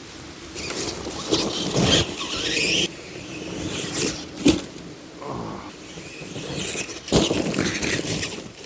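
Electric RC monster truck (Tamiya TXT-2) driving in bursts, its motor whining and rising in pitch under throttle, with several sharp cracks and knocks as it runs over brush and sticks.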